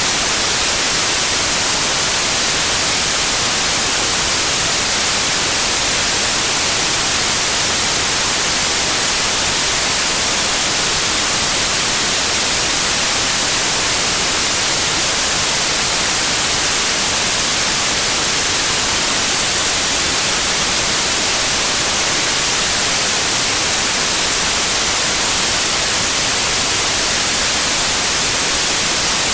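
Continuous generated pink noise: a steady, even hiss that does not change.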